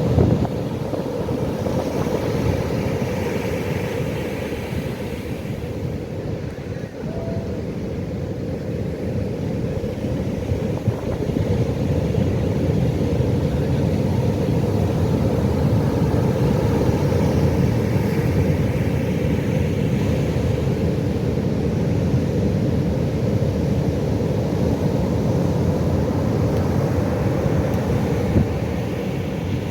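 Pacific Ocean surf: a steady low rumble of waves breaking, growing louder about ten seconds in.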